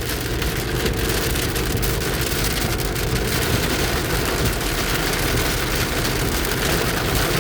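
Heavy rain falling on a moving vehicle, with steady road and engine noise underneath.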